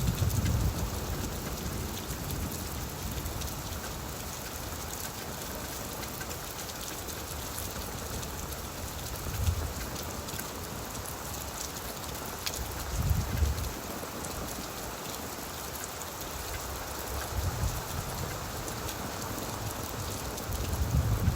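Steady rain falling on leaves, an even patter of drops. A few short low rumbles rise out of it now and then, the strongest about 13 seconds in.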